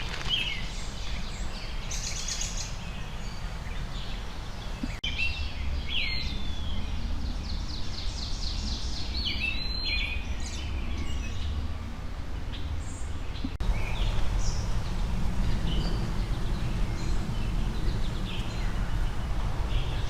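Wild birds chirping and calling, with a quick run of repeated notes around six to nine seconds in, over a steady low rumble of outdoor background noise.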